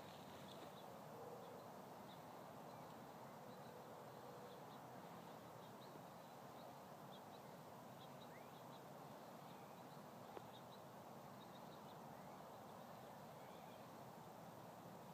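Near-silent outdoor ambience: a faint steady hiss with scattered short, high chirps from distant small birds.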